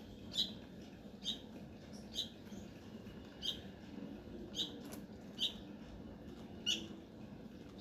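Baby bird peeping: about seven short, high chirps spaced roughly a second apart.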